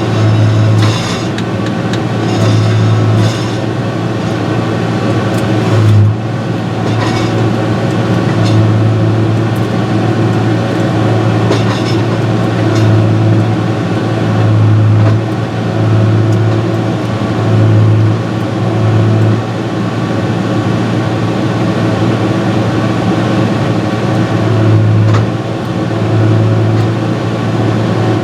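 Diesel engine running steadily, its low hum swelling and easing every second or two, with a few faint clicks over it.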